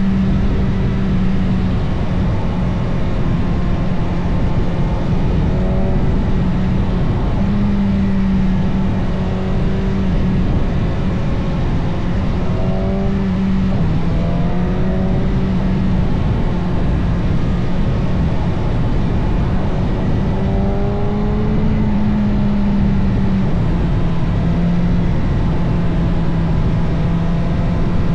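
Motorcycle engine running while being ridden, a steady drone that steps up and down in pitch as the throttle changes, with several short rises in pitch, over a constant rushing noise.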